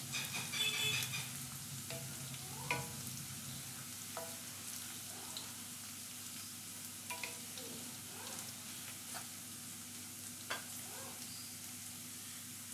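Sliced onions and cumin seeds sizzling in hot oil in a metal kadai, with a wooden spatula stirring and knocking against the pan every few seconds.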